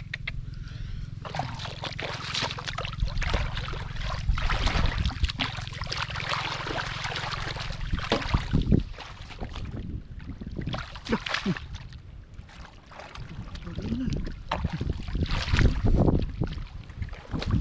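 Irregular splashing and sloshing in shallow muddy water from hands working through a drained rice field to grab fish, with wind rumbling on the microphone for roughly the first half.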